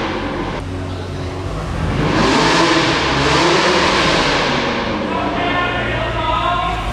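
Car engine revving hard in two long swells, rising and falling, with a high steady tone joining in near the end.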